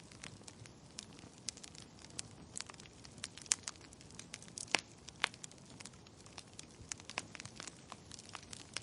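Wood fire crackling in a fireplace: irregular sharp pops and snaps of burning logs, a few louder ones, over a faint steady hiss.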